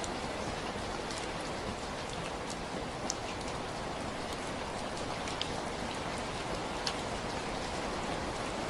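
Steady rainfall: an even hiss of rain with scattered louder individual drop ticks.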